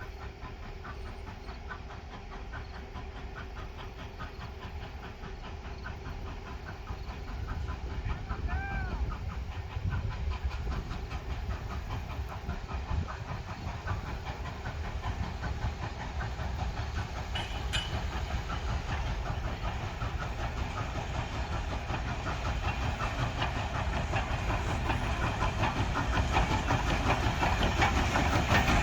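Frisco 1630, a 2-10-0 steam locomotive, drawing closer with its coach train: steam hiss and rail clatter with a rapid even rhythm, growing steadily louder.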